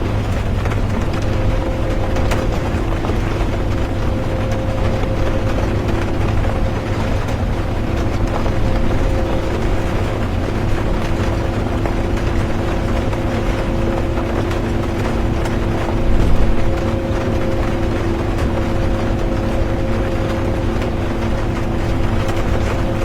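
Bus interior on the move: steady engine and road rumble with a constant drone, rain mixed in over it, and one brief louder bump about two-thirds of the way through.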